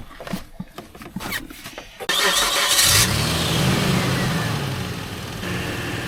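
Small clicks and rustling, then about two seconds in a vehicle engine is started: a short harsh cranking burst, after which it catches and runs, its revs rising and falling before settling into a steady run.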